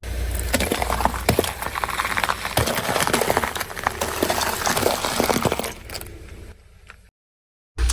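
Brittle objects being crushed under a car tyre: a dense run of cracking, crunching and clinking for about six seconds that thins out near the end.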